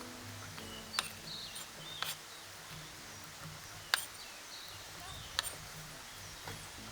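Quiet outdoor forest ambience with faint, short bird chirps and four sharp clicks or taps spaced one to two seconds apart.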